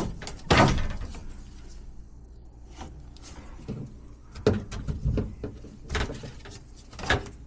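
A series of knocks and scrapes from parts and panels being handled. The loudest comes about half a second in, with a cluster of smaller knocks later on.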